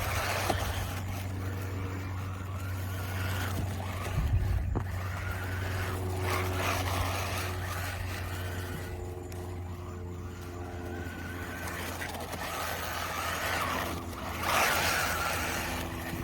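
Hyper Go 14301 1/14 scale brushless RC drift car running, its motor whine stepping up and down in pitch over a steady low hum, with bursts of tyre and road noise as it drives and slides.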